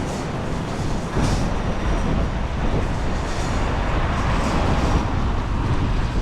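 Strong storm wind buffeting the microphone: a loud, continuous low rush that rises and falls without a break.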